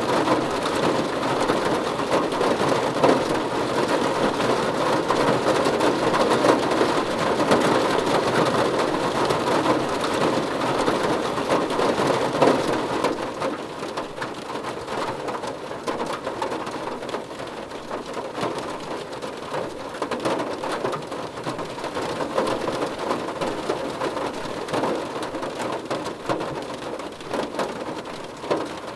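Steady rain falling, a dense patter of drops on a surface, which becomes somewhat quieter about halfway through.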